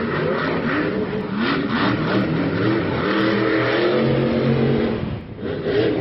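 Vehicle engines revving hard, the pitch rising and falling several times and held high and steady for a moment before a short drop-off about five seconds in.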